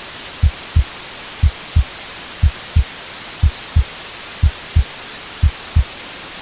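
A heartbeat, about sixty beats a minute, each beat a pair of short low thumps, over a steady white-noise hiss.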